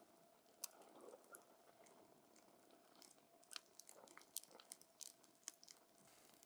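Wood campfire crackling faintly: irregular sharp pops and snaps from the burning logs, coming thickest past the middle.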